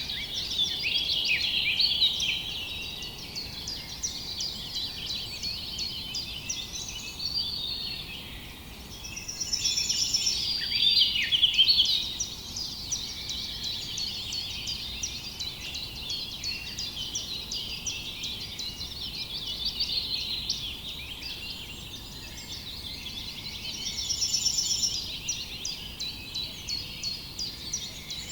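A dense chorus of many small songbirds chirping and trilling, swelling louder every fifteen seconds or so and easing off in between.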